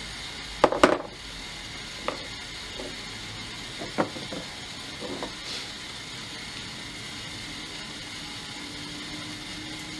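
A few scattered clicks and knocks of chisels being handled and set down on a workbench while they are waxed. The loudest pair comes about a second in.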